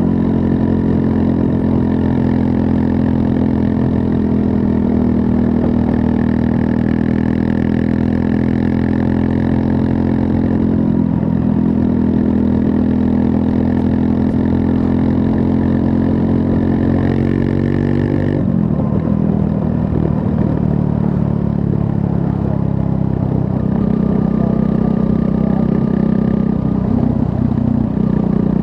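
Triumph Scrambler 400 X's 398 cc liquid-cooled single-cylinder engine running steadily while riding. About two-thirds of the way through the engine note changes abruptly and drops. It picks up again near the end.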